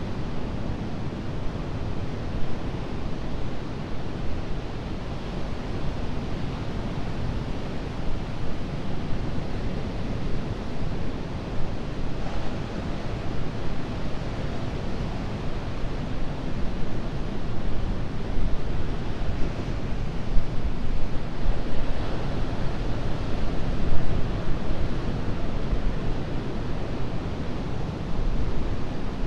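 Ocean surf breaking and washing on a beach as a continuous low rush, with wind buffeting the microphone. The surf swells somewhat louder in the second half.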